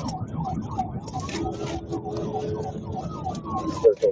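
Police car siren in fast yelp, about four sweeps a second, with a slower wailing tone rising and then falling over it, above the cruiser's road and engine noise during a pursuit. A few short louder blips come near the end.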